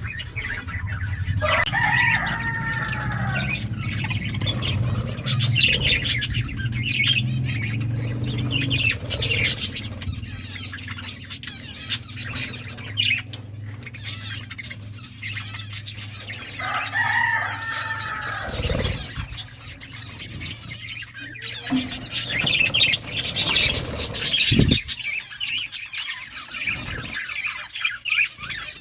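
Birds chirping and flapping, with many short chirps and clicks and two longer arching calls, about 2 seconds and 17 seconds in. A steady low hum runs under the first two-thirds and then stops.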